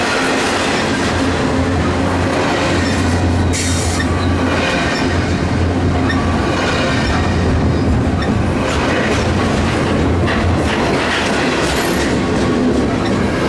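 Freight train cars rolling past close by, a steady loud rumble with the clickety-clack of wheels over the rail joints and some faint wheel squeal.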